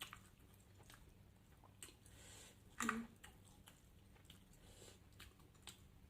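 A person chewing food quietly, with faint small clicks of mouth and utensils. There is one louder short sound a little before the middle.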